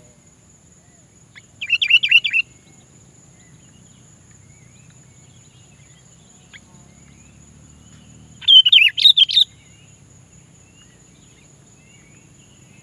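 Sooty-headed bulbul (kutilang) singing: two short bubbly phrases of quick warbled notes, each about a second long, one near the start and one about eight seconds in.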